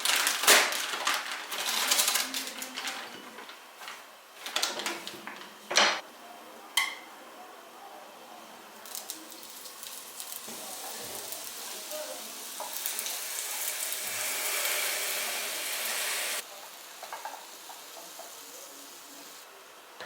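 Kitchen dishes and utensils clattering and clinking, with a few sharp knocks, one of them ringing briefly. Then a steady hiss swells for several seconds and cuts off suddenly.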